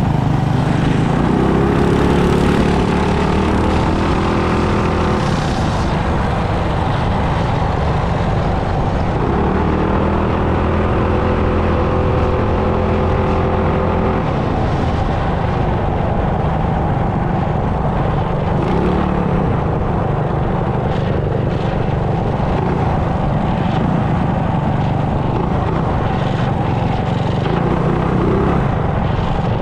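Mini bike engine running while the bike is ridden. Its pitch climbs and holds twice, under acceleration, about a second in and again around ten seconds in, over a constant low rumble.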